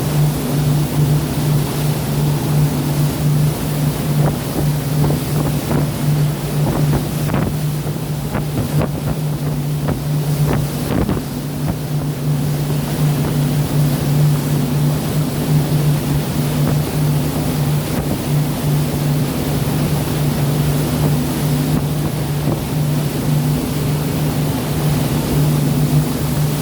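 A boat's engine running with a steady, unchanging hum, over a wash of wind and rushing sea water; a few brief splashing rushes come about a third of the way in.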